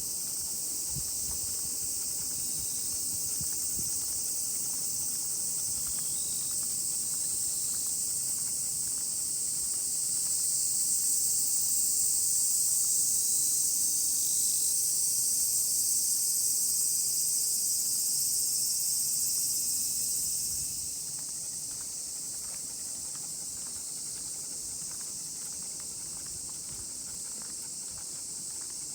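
Chorus of many cicadas singing: a steady, high-pitched shrill drone that eases somewhat about two-thirds of the way through.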